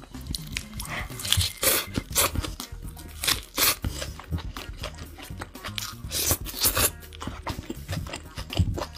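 Close-up chewing of a mouthful of hamburger: irregular crisp, crunchy bites and chews, louder in a few clusters, over background music with a steady bass line.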